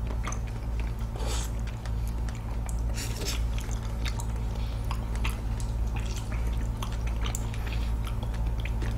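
Fresh figs being bitten and chewed close to the microphone: soft wet squishing with scattered small clicks and crackles, over a steady low hum.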